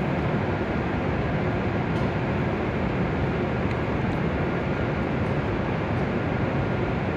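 Steady rushing hum of a W7-series Shinkansen train standing at the platform, its onboard equipment such as air-conditioning and cooling blowers running.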